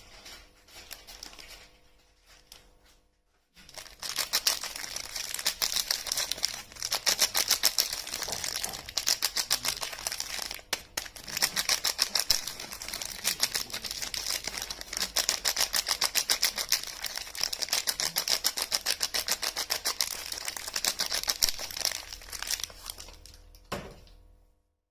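Soap packaging being unwrapped by hand: fast, dense crinkling and crackling that starts about four seconds in and stops shortly before the end, after a few soft scattered clicks.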